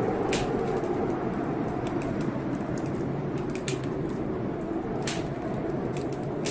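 Fireplace fire crackling, with irregular sharp pops and snaps over a steady rushing background.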